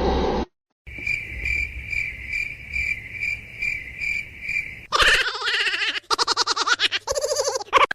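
A cricket chirping steadily in an even pulse, about two to three chirps a second. About five seconds in it gives way to louder, wavering, pitched vocal sounds.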